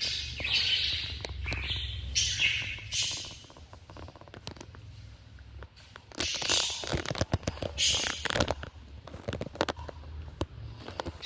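Small pet parrots calling in harsh, screechy bouts, four times over, with short clicks in between.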